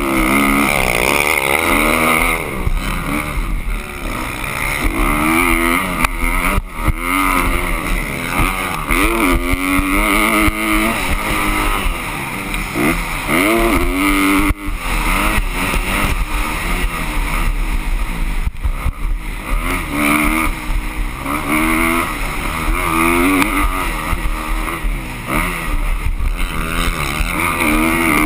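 Motocross dirt bike engines revving hard, their pitch climbing and dropping again and again, with more than one engine heard at times.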